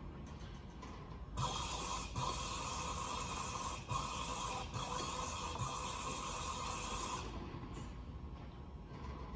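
A steady hiss starts about a second in and runs for about six seconds, with a few brief breaks, then stops.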